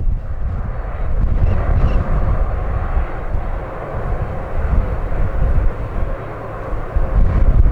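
A jet airliner's engines running steadily at a distance, under a gusting low rumble of strong wind buffeting the microphone.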